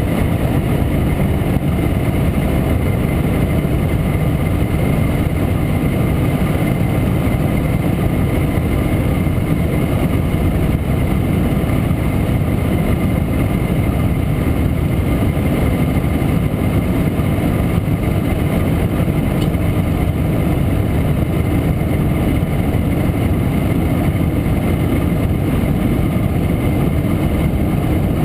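1967 Montesa Impala Comando 175's single-cylinder two-stroke engine running steadily under way, heard from on board the moving motorcycle. Its engine and riding noise stay constant throughout, with no gear changes or revving that stand out.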